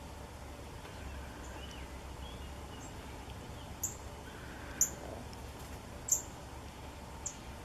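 Small songbirds chirping: four sharp, high chips in the latter half, with fainter twittering before them, over a steady low background rumble.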